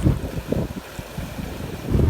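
Wind buffeting the microphone in irregular low gusts, loudest near the start and again at the end, over the steady rush of a mountain stream.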